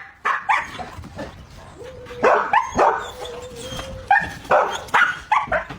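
A dog barking repeatedly: a dozen or so short, sharp barks in three quick runs.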